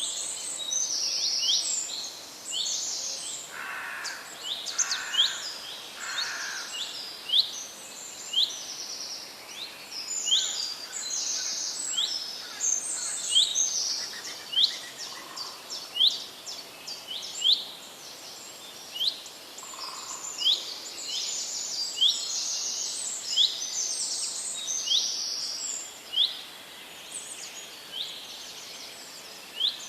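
Several songbirds chirping and singing: many short, sharp, high chirps mixed with rapid trilled phrases. There are a few lower warbling notes around 4 to 7 seconds in.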